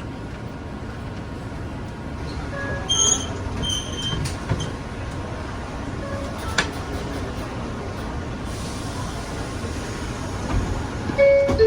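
Steady running noise inside an R142 subway car on the 4 line, with two short high chime tones about three seconds in and a short two-note tone near the end.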